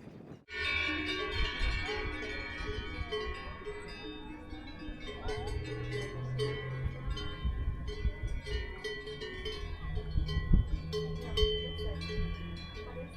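Several cowbells clanking irregularly and overlapping, as from grazing cattle, starting suddenly about half a second in over a low rumble.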